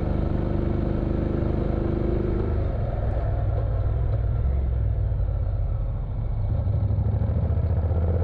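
Motorcycle engine running on the move. Its note changes about two and a half seconds in, then dips briefly around six seconds before picking up again.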